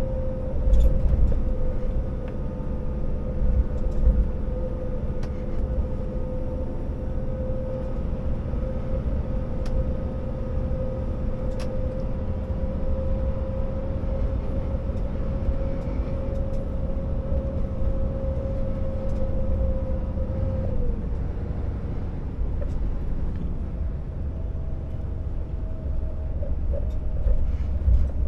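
Scania R650 timber truck's V8 diesel pulling under way, with a heavy low rumble and a steady whine. The whine drops away about 21 seconds in and a slightly higher whine comes in a few seconds later. Faint rattles and clicks come through now and then.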